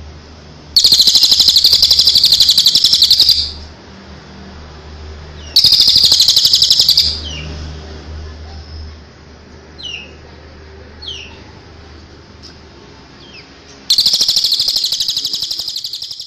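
Songbird singing in three long, loud bursts of rapid high trilling notes, with a few short downward-sliding chirps between the bursts, over a steady low hum.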